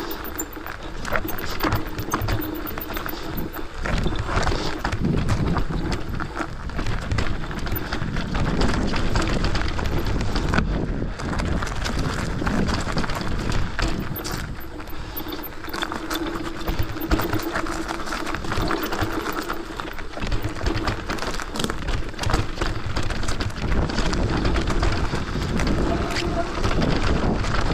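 A mountain bike rolling down a rough trail: a constant rattle and clatter of the bike over roots and rocks, with tyre rumble and wind on the camera microphone.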